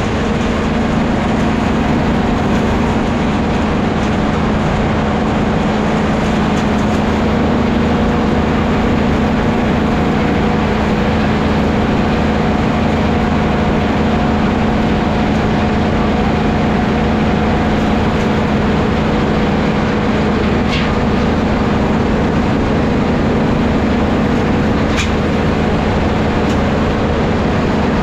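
Vintage sawmill machinery running steadily with a constant hum, with a couple of faint clicks in the second half.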